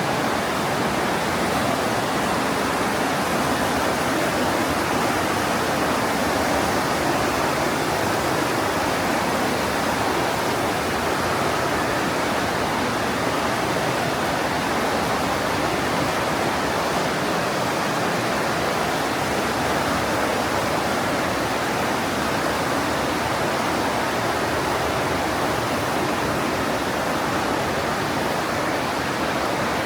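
The Partnach River, a mountain stream, rushing through the narrow gorge: a steady, unbroken rush of water.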